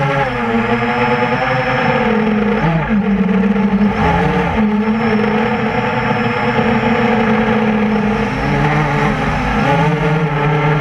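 Quadcopter's four Tiger Motor MT-2212 1100kv brushless motors and 8-inch propellers whining in flight, heard from the onboard camera. The pitch rises and falls with the throttle, dipping sharply a few times.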